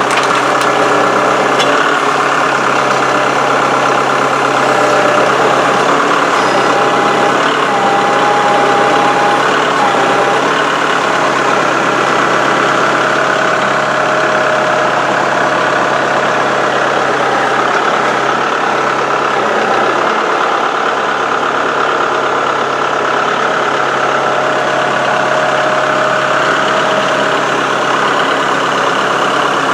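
Kubota tractor's diesel engine running steadily while working a hydraulic grapple, with a whine that comes and goes twice.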